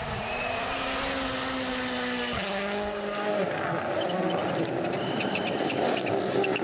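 A WRC rally car's engine at full throttle, its note shifting at a gear change about two and a half seconds in. After that a rougher rush of car noise takes over, with crackles in it.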